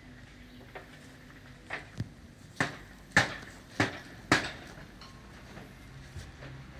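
Hammer blows during roof-leak repair: a few light taps, then four loud, evenly paced strikes about half a second apart.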